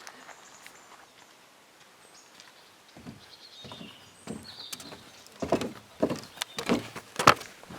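Footsteps coming in about halfway through, getting louder and settling to roughly two steps a second, with a few bird chirps in quiet outdoor ambience.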